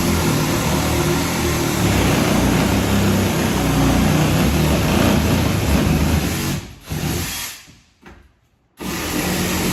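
Electric power saw cutting, running steadily, then stopping about two-thirds of the way through, a short burst, a brief pause, and starting again near the end.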